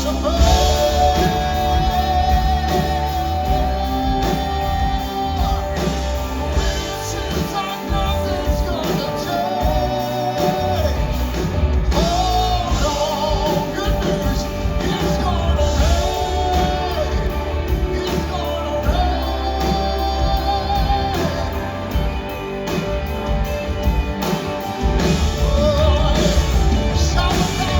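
Live gospel song with a band: a singer holds long notes with vibrato over a heavy, steady bass.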